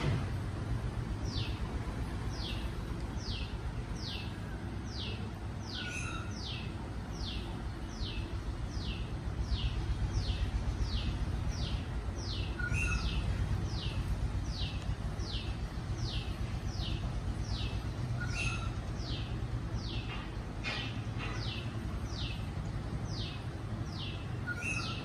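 A bird calling over and over in a long, even series of high, falling notes, about three every two seconds. Every five or six seconds a lower two-note call breaks in. A steady low rumble runs underneath.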